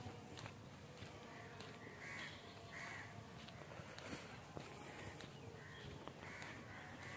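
Faint bird calls in woodland: a scattered series of short calls, about seven in all, over quiet background.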